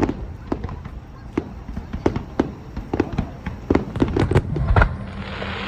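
Aerial fireworks bursting: a rapid, irregular string of sharp bangs, several a second. About five seconds in, a hissing crackle joins them.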